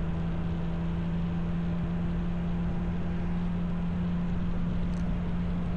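Motorcycle running at a steady cruising speed: a constant engine drone with road and wind noise, unchanged throughout.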